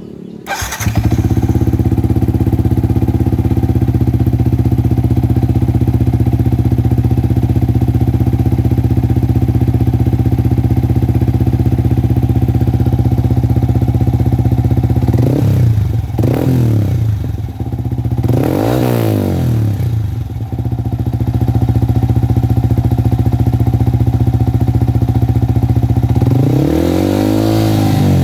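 Yamaha R15 single-cylinder four-stroke engine breathing through a stainless Kazen aftermarket muffler: it starts under a second in and idles steadily, then is revved briefly a few times, each rev rising and falling in pitch. The muffler is sold as a quieter, 'polite' replacement for a loud exhaust.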